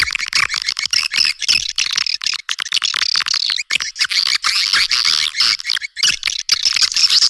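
Recorded edible-nest swiftlet calls: a dense, continuous chattering of rapid chirps and clicks from many birds, with nothing below a cut-off line near 1 kHz. It is a swiftlet lure call, the sound played to draw swiftlets to nest.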